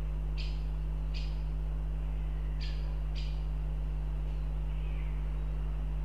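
A bird calling out of sight: four short, sharp calls in two pairs, with a fainter note near the end, over a steady low electrical hum.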